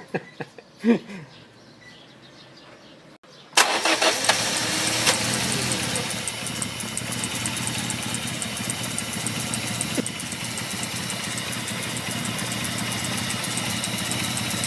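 Great Wall Florid's car engine starting: it catches suddenly about three and a half seconds in and settles into steady running.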